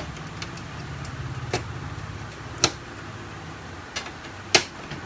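Plastic latches of a Canon LBP 6030 laser printer's outer cover clicking as the cover is pried loose: four sharp snaps, the loudest near the end, over a steady low hum.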